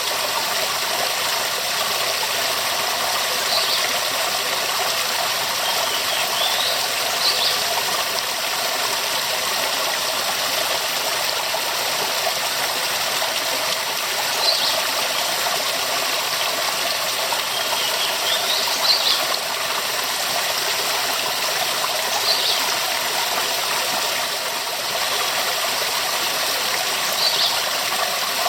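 Waterfall rushing steadily, a dense even roar of falling water, with brief high chirps every few seconds.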